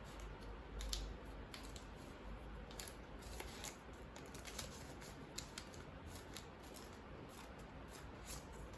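A sheet of origami paper being folded and creased by hand, with faint scattered crinkles and rustles as the fold is pressed down.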